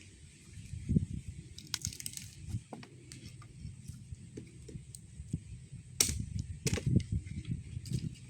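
Axe chopping firewood: a few sharp strikes, the loudest about six seconds in and again just after, amid wood cracking and being handled.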